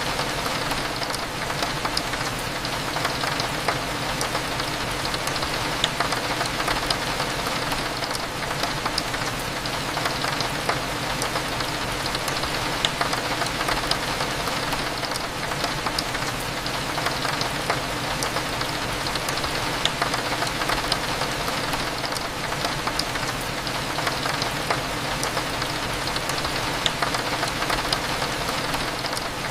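Steady rain, with many small drops ticking against a window, over a low steady cafe hum.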